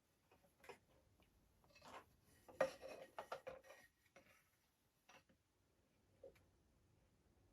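Faint clicks and small knocks of hard objects being handled, with a denser clatter from about two and a half to four seconds in.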